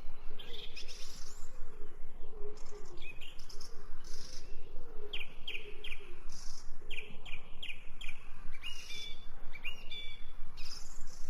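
Wild birds chirping and twittering, many short high chirps repeating in quick succession, with fainter lower calls beneath.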